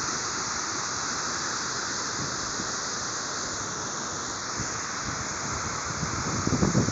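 Waterfall rushing, a steady, even roar of falling water. Near the end a few low bumps of wind buffet the microphone.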